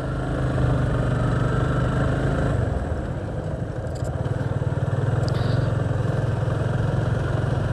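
Yamaha motorcycle engine pulling steadily up a steep hill road at low speed. The engine note dips briefly about two and a half seconds in, then picks up again.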